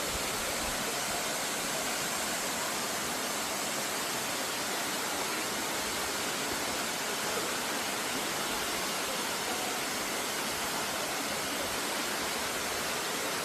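Steady rush of water from the Can-Umantad waterfall, an even noise at a constant level.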